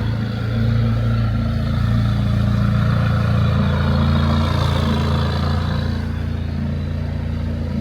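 A McLaren sports car's engine running steadily at low revs, its note shifting slightly about three seconds in.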